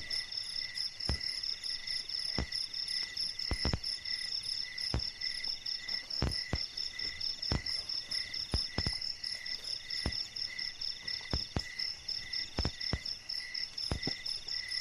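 Night chorus of crickets and other insects: several layers of steady, high pulsing chirps, one trilling in runs of about a second at a time. Sharp clicks or knocks come irregularly, about once a second.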